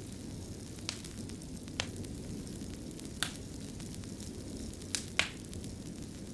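Wood fire burning in a fireplace: a steady low rushing under scattered sharp crackles and pops, five in all, the loudest near the end.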